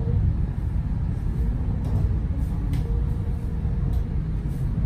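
Steady low rumble of running noise inside the passenger cabin of an MTR Vibrant Express high-speed train, with a few faint ticks.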